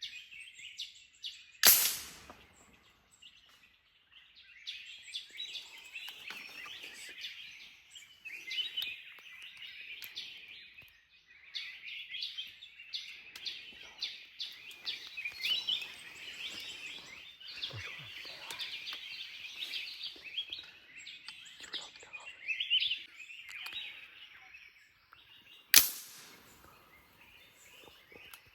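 Many wild birds chirping and calling in a dense, continuous chorus. Two sharp cracks stand out, one about two seconds in and one near the end.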